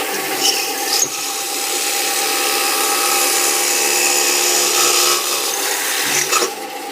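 Automatic multi-head drilling machine (Ferrari BZMP4) running a single vertical drilling head, the spindle motor humming steadily while the bit cuts into a curtain-wall profile with a loud, harsh grinding noise. There are a few sharp clicks in the first second.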